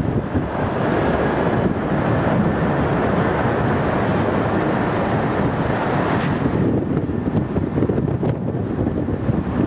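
Strong wind buffeting the microphone over the rushing noise of a jet airliner's engines. The higher hiss fades away about two thirds of the way through.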